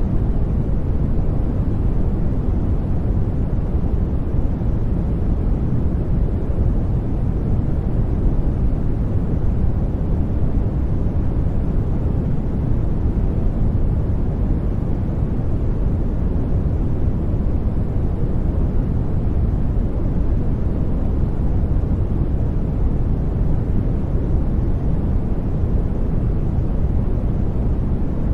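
Steady sleep noise, a smooth, even hiss-and-rumble weighted toward the deep end, with no changes or events.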